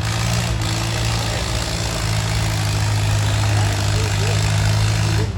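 Antique tractor engine running steadily with a deep drone that gets a little stronger about two seconds in.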